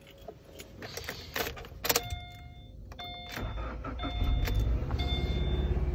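Keys clicking into the ignition, then a car's warning chime ringing about once a second. About three and a half seconds in, the engine cranks, starts and settles into a steady idle under the chime.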